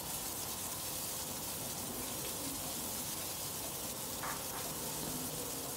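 Marinated prawns on bamboo skewers sizzling steadily in oil in a flat frying pan.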